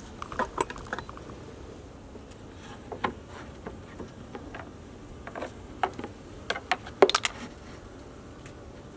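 Honey bees buzzing at an open Langstroth hive, with scattered clicks and knocks from the wooden hive boxes and bottom board being handled; the loudest knocks come about seven seconds in.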